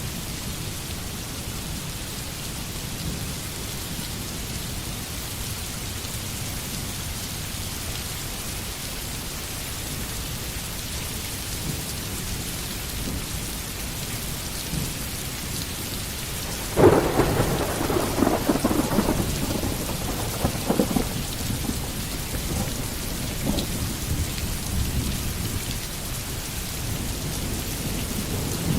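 Steady rain falling in a forest. About two-thirds of the way through, a sudden thunderclap cracks and then rumbles away over several seconds.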